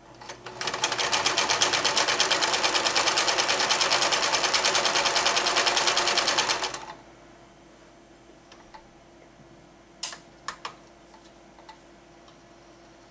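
Kenmore 158.13360 sewing machine sewing a pass through fabric, its motor and needle pulsing at a steady rhythm of about seven stitches a second. It speeds up over the first second and stops about seven seconds in. A few sharp clicks follow about three seconds later.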